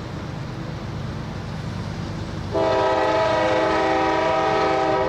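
Freight train's diesel locomotive sounding its air horn: one long steady blast of several tones together, starting about halfway in, over a low rumble that runs throughout.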